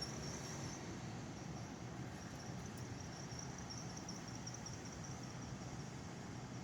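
Crickets chirping steadily in a high, pulsing trill over a faint, even background hiss.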